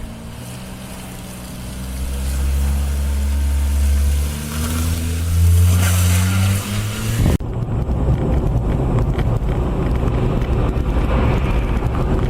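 A motor vehicle's engine running and rising in pitch as it speeds up. About seven seconds in it cuts off abruptly and is replaced by a rough, steady rumble.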